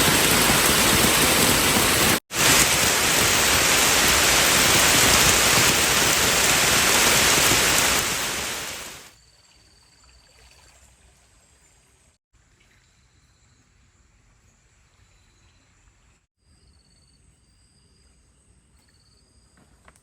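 Heavy rain falling as a steady, loud hiss, which fades out after about nine seconds to a faint background with short, high-pitched chirps.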